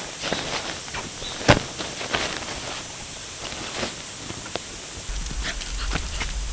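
Footsteps and small handling knocks and clicks over a steady background hiss, the sharpest knock about a second and a half in, with a low rumble coming in near the end.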